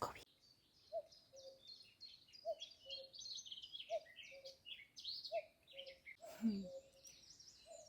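Morning birdsong: several small birds twittering rapidly and high, over a low two-note call, the first note higher than the second, repeating about every second and a half. A short low thud comes about six and a half seconds in.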